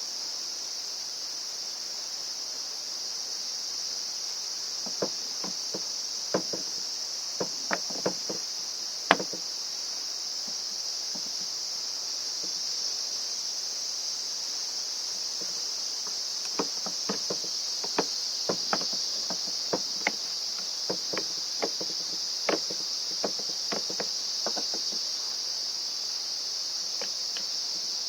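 A steady, high-pitched chorus of insects runs throughout. Over it come scattered light clicks and taps of small parts being handled, in two clusters, one a few seconds in and a longer one past the middle.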